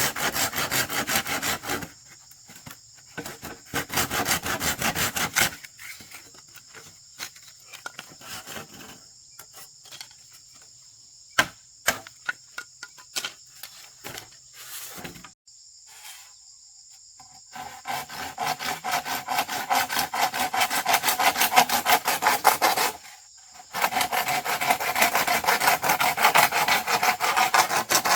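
Hand saw cutting through wood in fast strokes, in several long bursts broken by pauses with a few sharp knocks. Insects buzz steadily in the quieter stretch.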